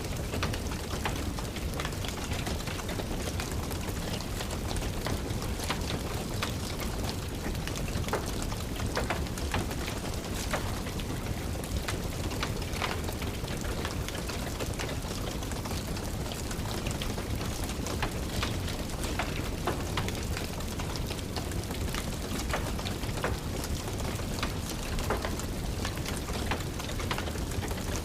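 Steady rain falling and tapping, with a wood fire crackling: many small, sharp pops and clicks scattered over the even hiss.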